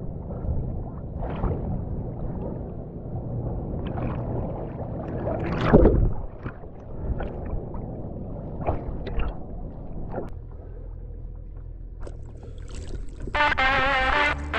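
Motorboat running on the water: a steady low engine rumble under rushing water and wind noise, with a few louder splashes, the loudest about 6 s in. Music comes in near the end.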